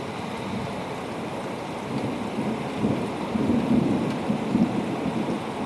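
Steady rain with a low roll of thunder that swells in about two seconds in and rumbles on through the rest.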